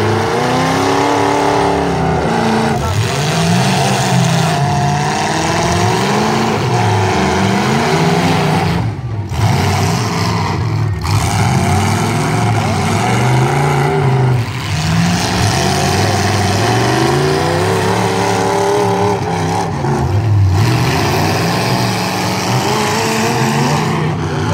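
Demolition derby trucks' engines revving hard, their pitch rising and falling over and over as they are driven back and forth, with more than one engine heard at once.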